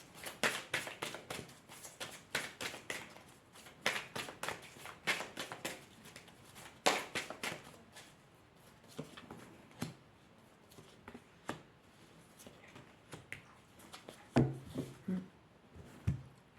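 A deck of tarot or oracle cards being shuffled and handled by hand: a fast run of card flicks and slaps for the first several seconds, then sparser taps, with one louder tap near the end.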